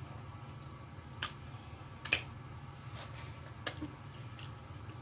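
Chewing fried chicken sandwich close to the microphone: a few short, sharp crunchy mouth clicks over a steady low hum.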